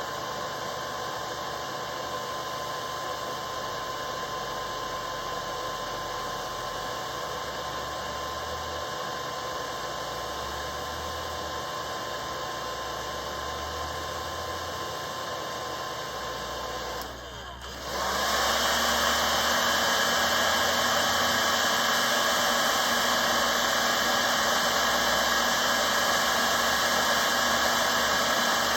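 Hair dryer blowing steadily, drying fresh matte varnish on a carving. About seventeen seconds in it drops for a moment, then spins up to a louder, higher-pitched setting with a steady whine.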